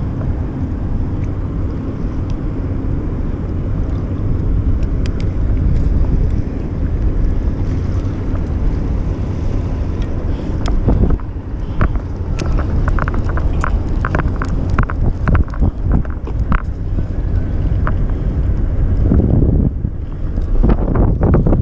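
Wind buffeting the microphone, a steady low rumble, with a run of short, light clicks about halfway through.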